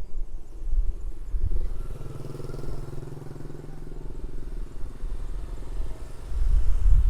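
A small motorcycle engine running steadily as it passes, heard for about four seconds in the middle, over a low rumble that grows louder near the end.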